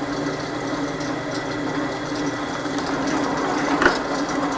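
Drill press running steadily, drilling a hole, with one short click near the end.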